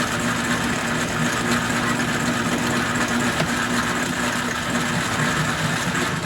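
1944 Logan 210 metal lathe running at raised spindle speed, its tool taking a facing cut toward the centre of the work: a steady machining noise with a hum.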